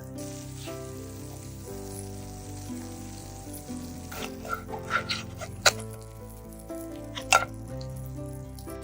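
Banana-egg batter sizzling in a frying pan, a steady hiss, with a few sharp clicks, the loudest about five and a half and seven seconds in. Soft background music plays throughout.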